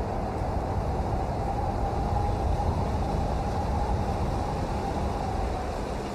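Steady rain, an even rushing noise heavy in the low end with no single drops standing out.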